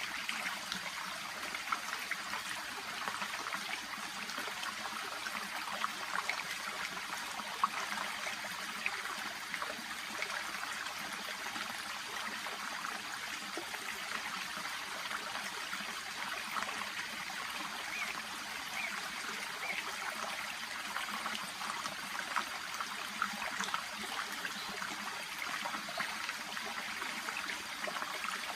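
Small shallow brook babbling steadily: a continuous trickle of running water with many tiny splashes.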